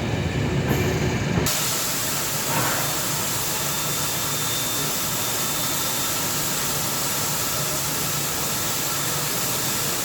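A low rumbling noise that cuts off abruptly about a second and a half in, giving way to a steady hiss.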